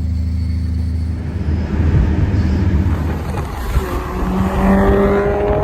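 Car engine running at a steady low hum, then a rumble and a gently rising pitch from about four seconds in as it accelerates.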